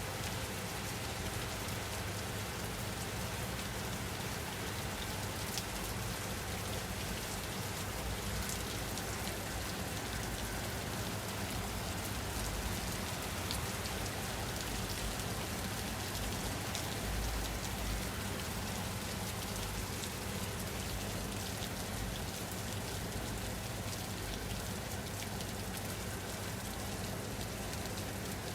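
Steady rain falling on a surface: a continuous even hiss with scattered drop ticks and a low rumble underneath.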